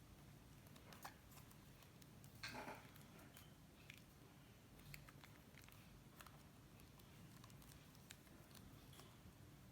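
Faint handling of slime: scattered small clicks and a brief squish about two and a half seconds in.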